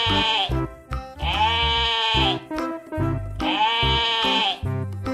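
Sheep bleating: three long bleats about two seconds apart, each rising then falling in pitch, over background music with a steady low beat.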